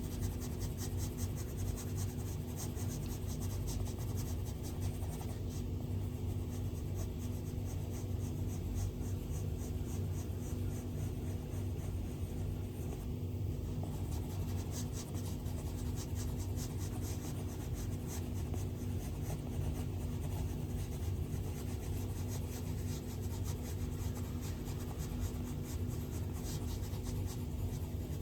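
Stylus drawing on an iPad screen: a dense run of small scratchy strokes and taps across the glass, over a steady low hum.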